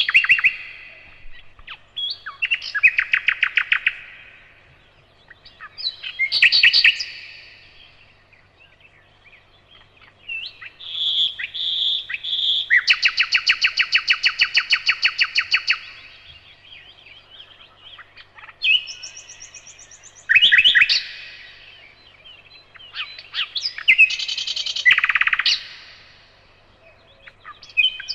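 Nightingale singing in separate phrases a few seconds apart: fast rattling trills of repeated notes, three clear whistled notes leading into a long rapid trill, and sharp clicking notes.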